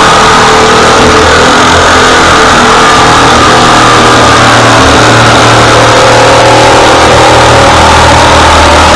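Small gasoline engine running steadily at a constant speed, very loud and close.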